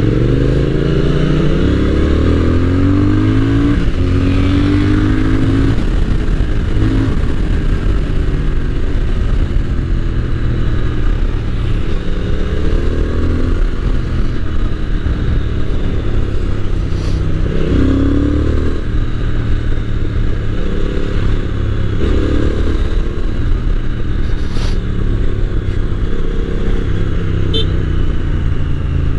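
Triumph Speed Twin 1200's 1200 cc parallel-twin engine running under way, pulling hard and rising in pitch through the gears several times.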